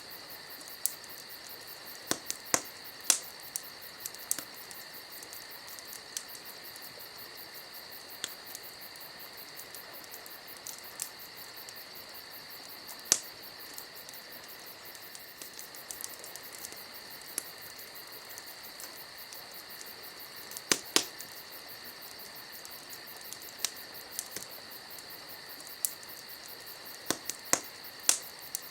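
Campfire crackling with irregular sharp pops, a few of them louder, over a steady high trill of crickets.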